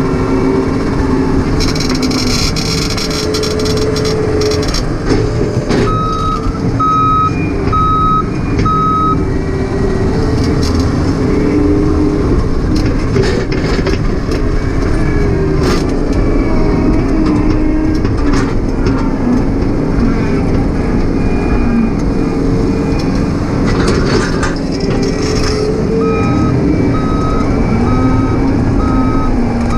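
John Deere 135 excavator's diesel engine running and working, its pitch shifting with load, with a travel alarm beeping in two runs, a few beeps about six seconds in and again near the end. Scattered sharp knocks and a short crackling hiss sound over the engine.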